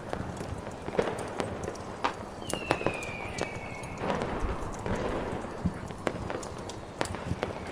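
Fireworks over a crackling fire: irregular sharp pops and cracks, a whistling rocket falling in pitch about two and a half seconds in, and a rumbling burst around four seconds in.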